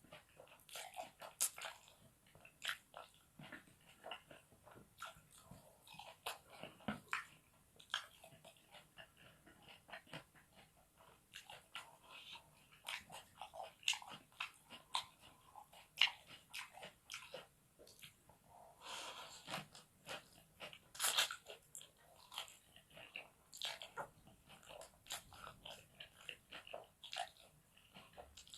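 Close-miked eating sounds: irregular chewing and biting with crisp crunches and wet mouth clicks, from a person eating spicy fried rice stick noodles.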